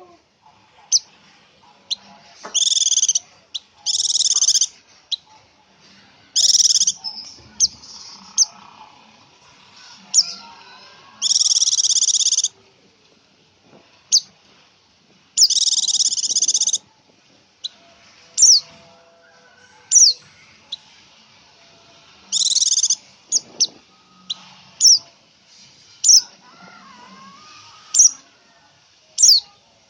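Female pelci songbird calling: sharp, high, descending chirps repeated every second or two, broken by about six buzzy trills of roughly a second each. It is the female's call used to draw a male to answer.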